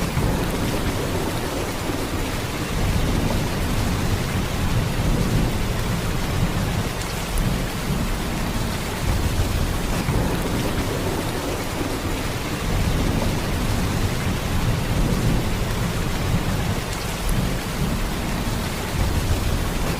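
Heavy rain falling in a steady downpour, with a deep low end that swells and eases every few seconds.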